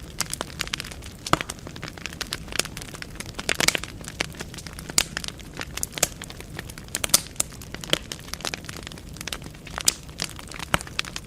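Burning firewood crackling in a fireplace: irregular sharp pops and snaps, a few louder cracks, over a soft steady hiss of the flames.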